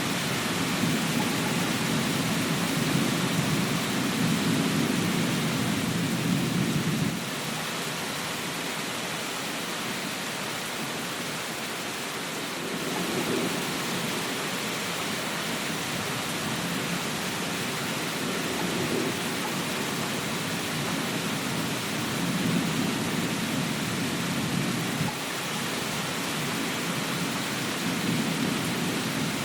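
Steady rain hiss with low rolling thunder rumbling over it, loudest for the first seven seconds, cutting off abruptly, then swelling again in waves toward the end.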